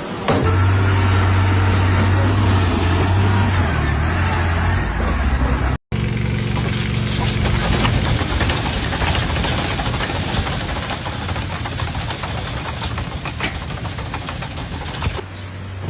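A vehicle or machine engine running steadily. It cuts out briefly about six seconds in and starts again at a different pitch with a high hiss and many small knocks.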